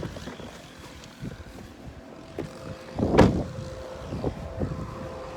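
Irregular footsteps and rustling as someone walks through roadside brush, with one loud knock a little past three seconds in. A faint steady engine-like hum comes in over the second half, with wind on the microphone.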